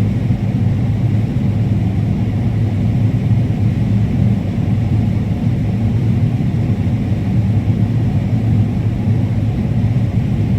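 Combine harvester running steadily while cutting corn: a constant low drone.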